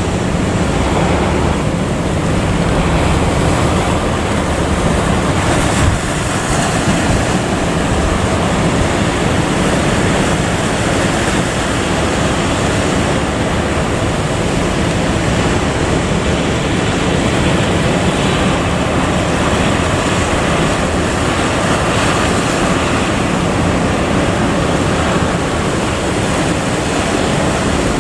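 Steady rushing of wind and sea waves at sea, with a low drone underneath.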